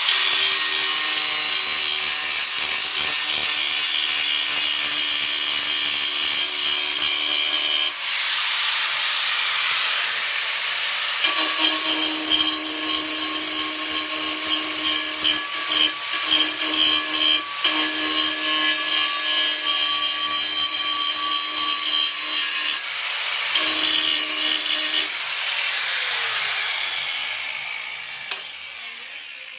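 A power tool cutting into steel plate with a steady high whine and hiss over several long passes, with short breaks between them. Near the end the tool is let off and spins down, its pitch falling as it fades.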